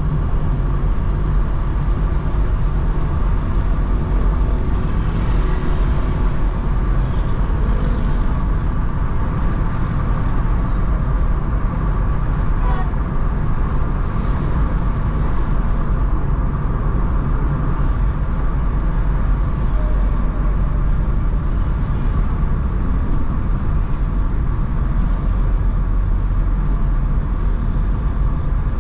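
Steady noise of a car driving in city traffic: a continuous low rumble of engine, tyres and traffic, with no distinct events.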